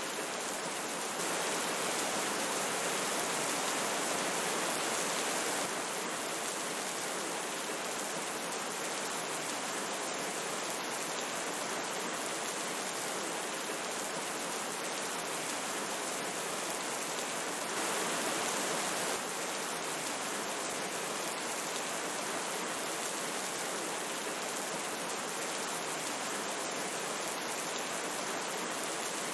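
Steady rain mixed with a flowing stream, an even rushing hiss with no distinct drops or tones. It steps slightly louder for about five seconds near the start and again briefly past the middle.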